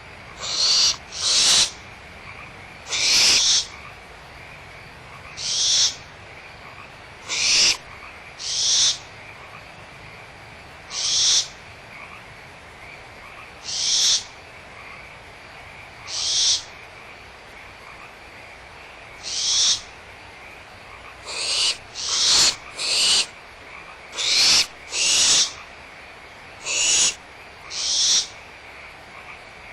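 Barn owl owlets giving harsh hissing calls, about twenty half-second hisses repeated every second or two and coming faster for a stretch near the end.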